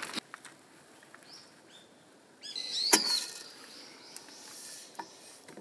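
A wild bird giving short, high-pitched calls, once about a second in and again, louder, near the middle, with a sharp click at the loudest call.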